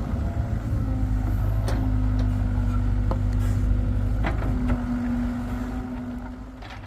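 Hitachi EX75UR excavator working, its engine running with a steady low drone and a steady hum above it. There are a few sharp knocks, and the sound eases off near the end.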